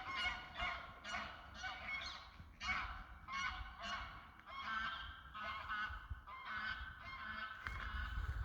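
Greylag geese honking: a steady run of short, repeated calls, about two to three a second, with calls overlapping. A low rumble comes in near the end.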